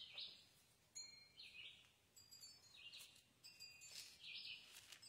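Faint bird calls: a short high call that dips in pitch, repeating about every second and a half, with faint thin high tones behind it.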